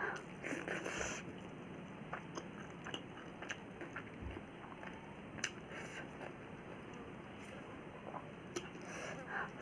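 Close-miked chewing of a soft mixed mouthful of rice, dal and vegetables, with scattered small wet clicks from the mouth.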